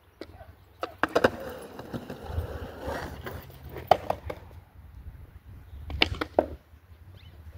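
Skateboard wheels rolling on concrete, broken by sharp clacks of the deck and tail hitting the ground: a double clack about a second in, then further clacks near four and six seconds in.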